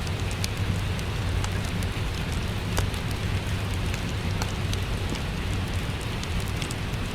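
Steady rain mixed with a crackling wood fire: an even hiss over a low rumble, dotted with scattered sharp crackles and pops.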